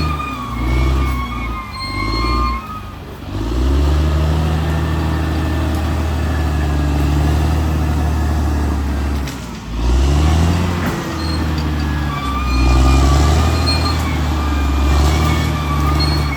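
Caterpillar D6R XL bulldozer's diesel engine working under load, its note easing off briefly about three seconds in and again near the ten-second mark, then pulling back up. High thin whistling squeals come and go over it early on and again near the end.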